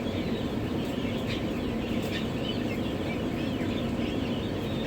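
Newly hatched turkey poults and a duckling peeping: many short, rapid chirps overlapping, over a steady low hum.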